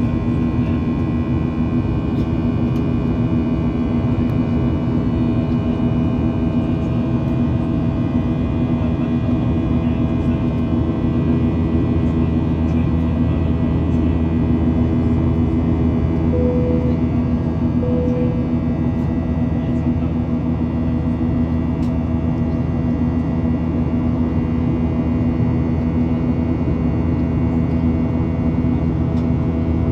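Steady in-flight cabin drone of a Boeing 737-800 heard from a seat over the wing, its CFM56 engine running with a constant low rumble and steady whine. About halfway through, two short tones sound about a second and a half apart.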